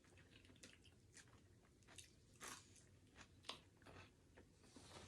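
Faint eating sounds from a burger meal: chewing with scattered short, crunchy clicks, the loudest about halfway through.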